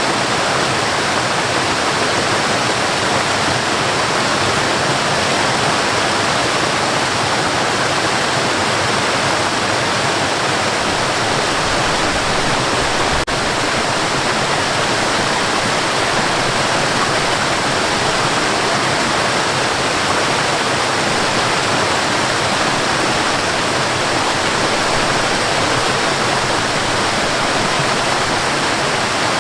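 Waterfall rushing steadily, a dense unbroken roar of falling water, with a tiny click about thirteen seconds in.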